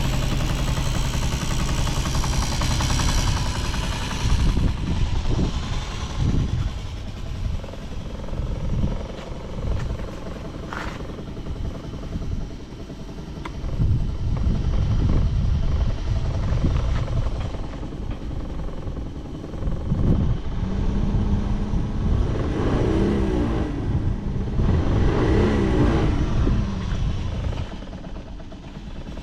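Honda Jorcub (AF53) 50cc four-stroke scooter engine running, revved up and down several times, with the pitch rising and falling near the end. It runs without abnormal noise: a quiet engine sound.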